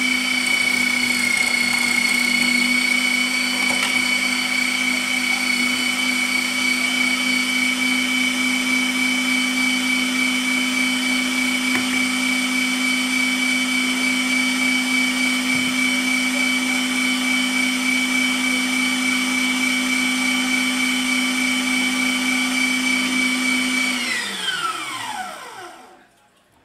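Bosch MFW3640A electric meat mincer motor running at a steady, even whine. It is switched off a couple of seconds before the end and winds down, its pitch falling away to silence.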